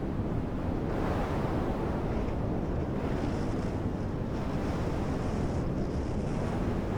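Wind rumbling steadily against the microphone.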